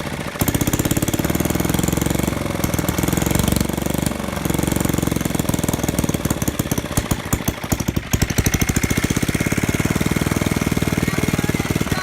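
Old Reo gasoline engine running at a fast, steady firing beat; for a couple of seconds about halfway through the firing turns uneven and slower, then it settles back to a steady run.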